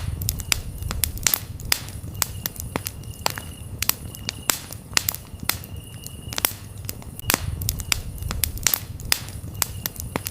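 Campfire burning, crackling with frequent sharp pops over a low rumble of the flames. Crickets chirp in short high trills about once a second.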